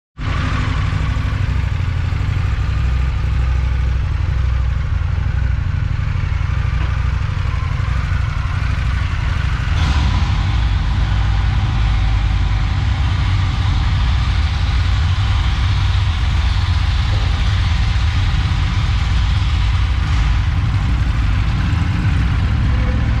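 2019 Indian FTR 1200's V-twin engine idling steadily, with a faint click about ten seconds in.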